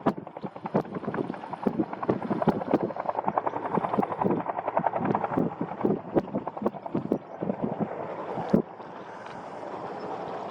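Bell UH-1N Twin Huey helicopter's two-bladed main rotor beating in rapid pulses, which give way to a steadier rush near the end.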